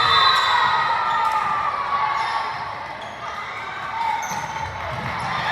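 A volleyball bouncing on a gym floor a few times, over the steady chatter and calls of a crowd in the stands.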